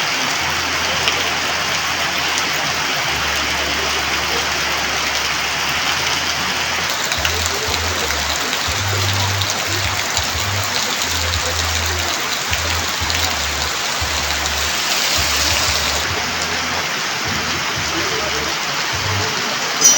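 Heavy monsoon rain pouring steadily: a dense, even hiss with fine ticks of drops striking surfaces. Low droning tones underneath change every second or so.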